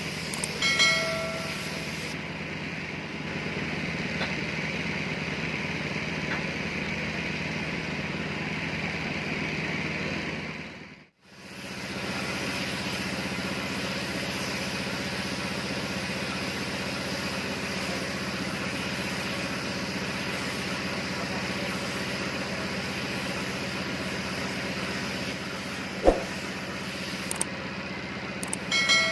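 Steady mechanical hiss over a low hum. It cuts out suddenly about eleven seconds in, then resumes. A short electronic beep sounds near the start and again at the end, and there is a single click shortly before the end.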